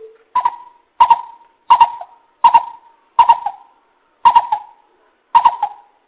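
Greater coucal giving its hooting call as a lure recording: a series of about seven deep, evenly spaced hoots, roughly one every three-quarters of a second, that step up in pitch from a lower first note.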